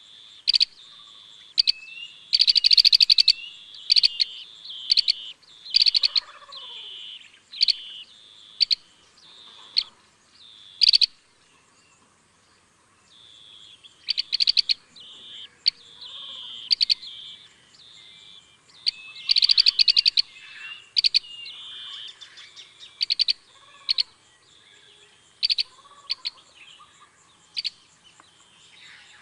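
Green bee-eaters calling: repeated short, rapid trilled chirps, with the loudest and longest trills about 3 seconds in and again about 20 seconds in, over a steady background of chirping.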